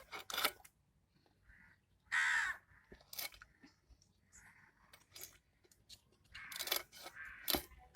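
A crow cawing a few harsh calls, with sharp clicks and taps between them.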